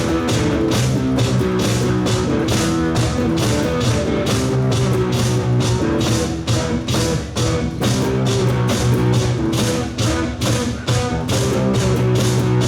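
Live rock band playing an instrumental passage: electric guitar and bass over a drum kit keeping a steady, driving beat, with no singing.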